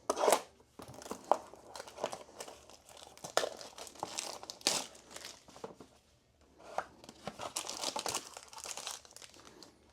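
Wrapper of a trading card pack being torn open and crinkled by hand: irregular crackling and rustling, with a short pause partway through.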